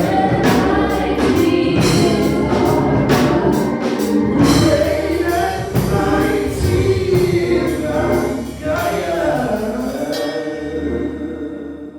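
Gospel choir singing with drums and band backing, fading out near the end.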